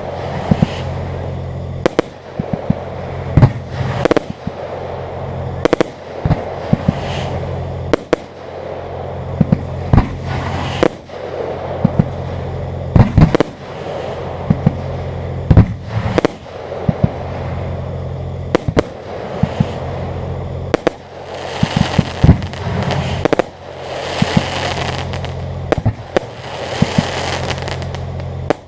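Fireworks display: aerial shells bursting in many sharp bangs, often several in quick succession, with crackling between them over a steady low hum.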